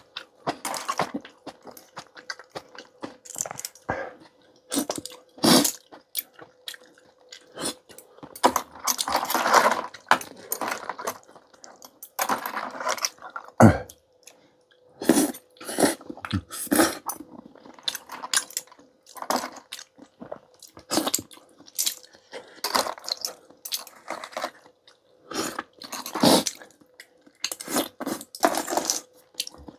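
Close-miked eating of clam and seaweed noodle soup: irregular chewing with clinks of utensils and clam shells against the dishes. A faint steady hum sits underneath.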